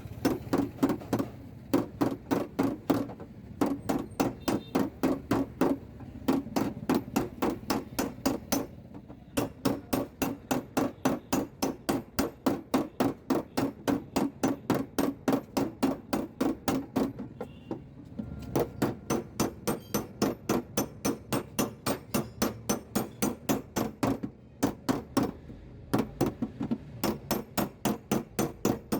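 Rapid hammer taps on the sheet-metal door panel of a Suzuki Swift, about three to four a second, in long runs broken by a few short pauses, as a dent is knocked out by hand.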